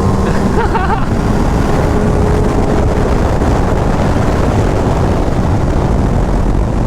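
Sport motorcycle riding at speed, with heavy wind rushing over the microphone and covering the engine; a steady engine tone lies under it for the first few seconds.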